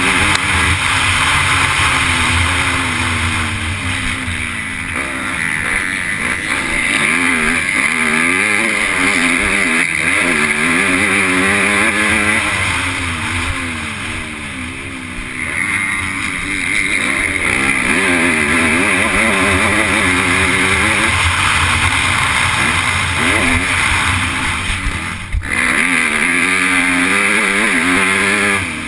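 MX2 motocross bike's engine ridden hard on a track, the revs climbing and falling again and again with throttle and gear changes. Wind rush over the onboard camera's microphone runs under it.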